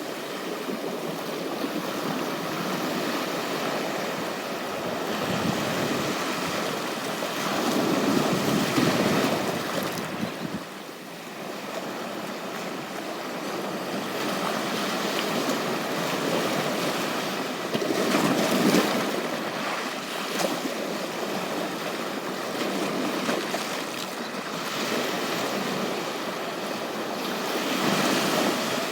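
Ocean surf washing onto a beach in a steady wash, with three larger waves breaking about ten seconds apart.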